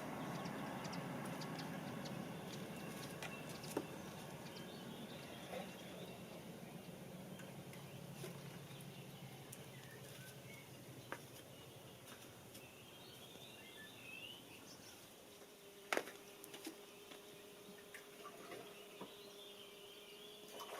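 Faint garden ambience: a low rumble that fades away over the first ten seconds, a few faint bird chirps, and scattered light clicks, the sharpest about sixteen seconds in.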